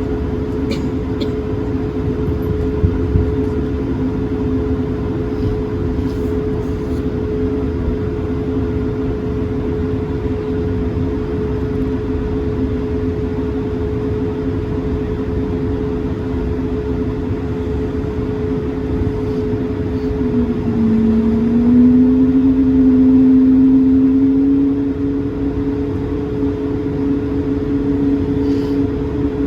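Airbus A220-300 cabin noise: the Pratt & Whitney PW1500G geared turbofans make a steady two-tone hum over a low rumble. A little over two-thirds through, the lower tone dips, then rises and grows louder for a few seconds before settling, as the engines spool up briefly.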